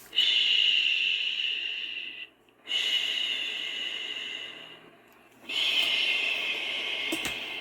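Momcozy Little Shell portable sound machine playing its recorded "shh" shushing sound: three long shushes, each starting suddenly and fading away, about one every two and a half seconds.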